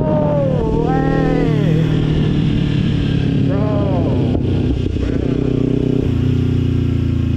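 Motorcycle engine running under way, its note shifting about six seconds in.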